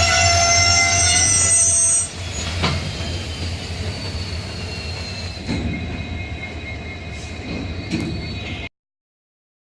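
Passenger train's steel wheels squealing on the rails over the low rumble of the coaches: a loud high squeal for about two seconds, then a fainter ringing squeal that slowly falls in pitch. The sound cuts off abruptly near the end.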